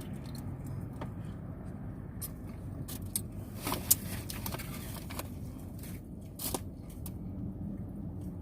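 Steady low rumble with a few short rustles and clicks from handling food, the sharpest about four seconds in.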